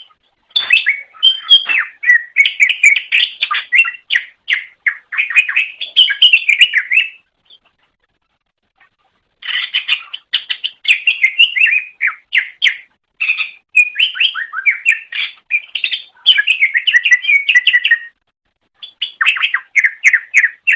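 Green leafbird (cucak ijo) singing: long, fast, varied runs of chirps and whistles, broken by a pause of about two seconds partway through and a shorter pause near the end.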